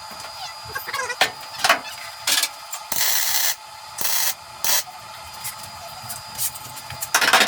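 MIG welder plug welding steel car body panels: several short bursts of crackling hiss, each about half a second, then a quick run of rapid pulses near the end.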